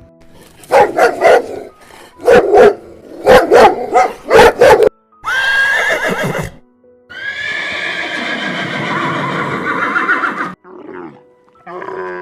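Horse neighing: a run of short loud calls, then a higher whinny about five seconds in, followed by a long neigh lasting about three seconds.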